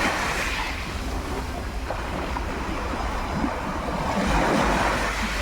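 Sea waves washing onto the shore, swelling at the start and again about four seconds in, with wind rumbling on the microphone.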